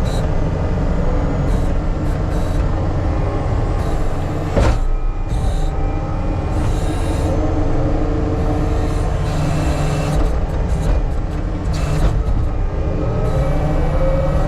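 Heavy earthmoving equipment engine running steadily under load, with a single sharp knock about four and a half seconds in.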